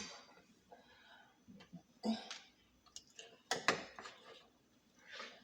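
Quiet eating sounds of fried chicken being chewed, with a few short scattered clicks and smacks.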